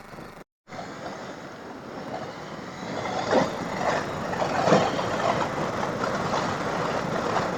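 Riding noise from a KTM 890 Adventure R at road speed in wind and rain: wind rushing and buffeting over the microphone, with the bike's engine and wet-road tyre noise underneath. The sound cuts out for an instant just after the start and grows louder and gustier about three seconds in.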